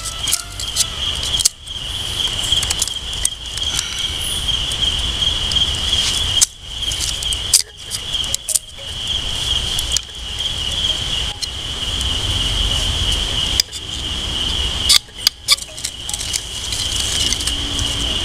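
Steady high-pitched drone of insects such as crickets or cicadas, over a low rumble and scattered light clicks and crackles. The sound drops out briefly several times.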